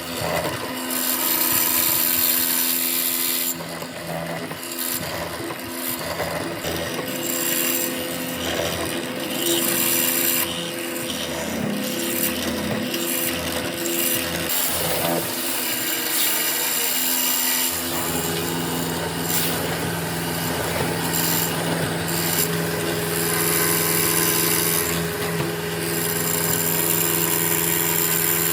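A power tool running against wood, with a steady motor hum under rasping, scraping noise. About two-thirds of the way through, the hum becomes louder and steadier.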